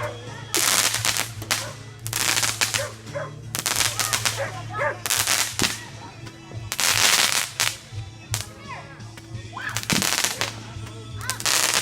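Fireworks going off in rapid crackling volleys, several loud bursts a second or two apart.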